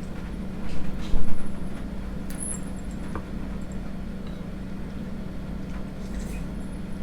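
Eating sounds close to the microphone, with a few light clicks like a spoon against a bowl and a louder low bump about a second in, over a steady low hum.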